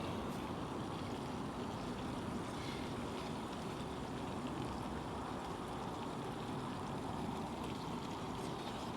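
Steady, even hiss of cooking: salmon and vegetables frying in butter in a skillet over the stove.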